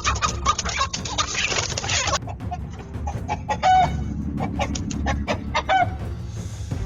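Chickens squawking and clucking in alarm as a rooster fights off a predator in a coop, over a clatter of scuffling. The scuffling is densest in the first two seconds, then short squawks break out now and then.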